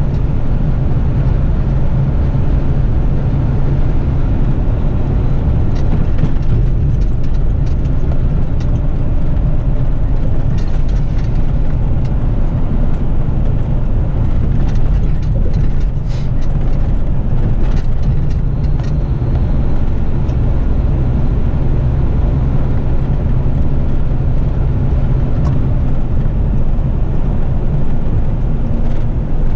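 Diesel engine and road noise of an eight-wheeler twin-steer front-lift garbage truck cruising at about 80 km/h: a steady, deep drone. Faint light clicks come and go in the middle stretch.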